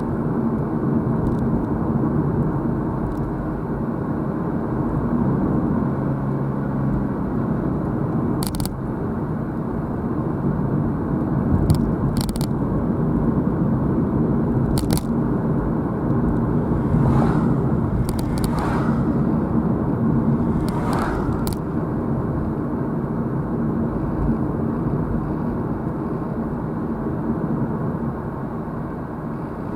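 Car driving along a road, heard from inside the car: a steady rumble of road and engine noise, with a few sharp clicks and some short whooshes partway through.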